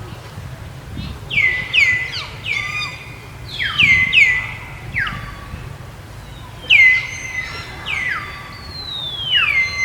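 Many high whistled calls, each sliding quickly down in pitch and then holding a steady note, overlapping and repeating every second or so, over a low steady background hum.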